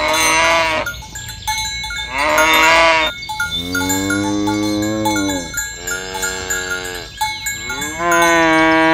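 Cattle mooing: five calls one after another, the longest about two seconds, each bending in pitch and falling away at the end.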